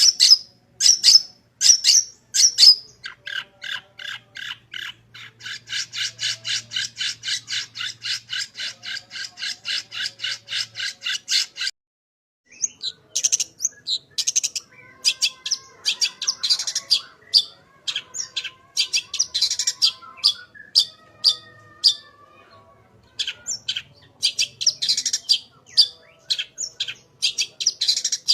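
Long-tailed shrike (cendet) singing a harsh, scratchy song. It opens with a few loud calls, then gives a long even run of rapid notes, about five a second, for some six seconds. After a brief break near the middle it goes into a varied chatter of mimicked phrases.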